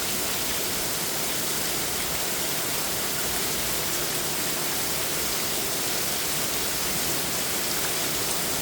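Very heavy rain pouring down in a steady, unbroken hiss, rain and runoff falling like a waterfall.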